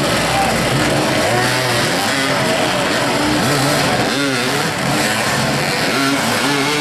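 Several motoball motorcycles revving during play, their engine notes rising and falling and overlapping one another.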